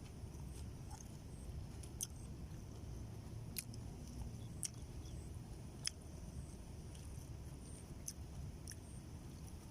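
Someone eating, with chewing and scattered small sharp clicks, over a low rumble.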